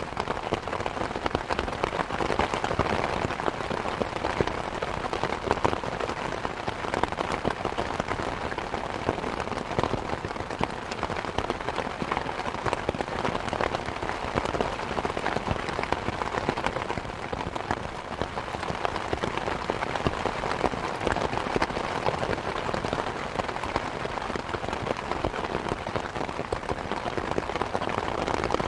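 Steady rain hiss mixed with a wood fire crackling, many small snaps and pops scattered densely over the even wash of rain.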